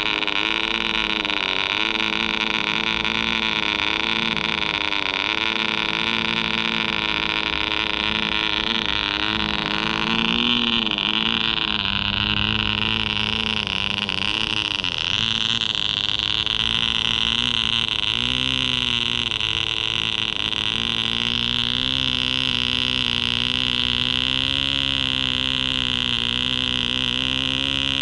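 Soviet MK-12V model-aircraft compression-ignition (diesel) engine running at high speed on ether–kerosene–castor fuel. Its pitch wavers throughout and dips briefly a couple of times before steadying.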